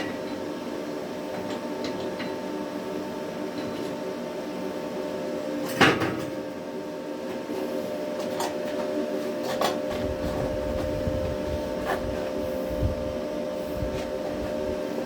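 Steady hum of an idling stick welder, with a few scattered knocks and clicks, the loudest about six seconds in.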